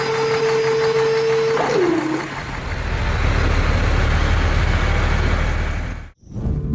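Heavy truck sounds: a long steady horn-like tone that sags downward in pitch as it ends about two seconds in, followed by a low engine rumble that cuts off abruptly a little after six seconds.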